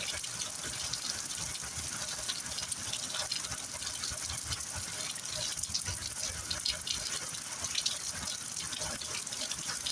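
Heavy rain pouring steadily, a dense patter of drops striking surfaces.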